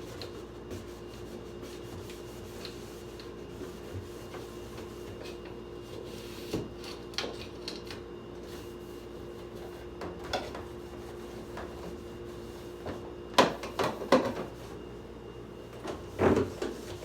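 Scattered knocks and rubbing from wiping down and handling parts inside a refrigerator, with a cluster of louder knocks about two thirds of the way through and more near the end, over a steady low hum.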